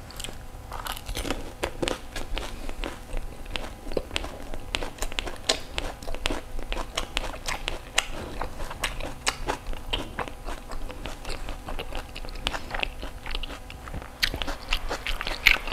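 Close-miked crunching and chewing of crisp fried pani puri shells with their topping, a dense run of sharp crackles that goes on steadily.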